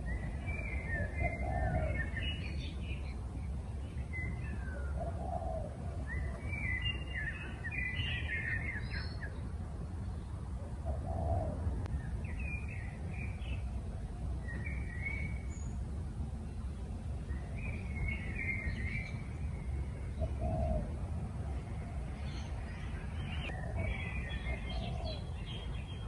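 Birds chirping in short, scattered bursts over a steady low rumble.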